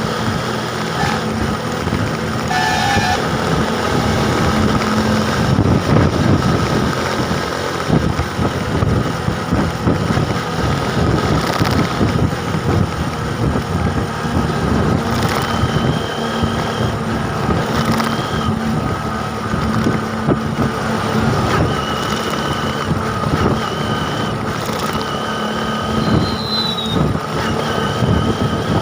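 Steady road noise from riding a bike: wind on the microphone over engine and traffic sound. Several short, high steady tones, like horns or beeps, sound in the second half.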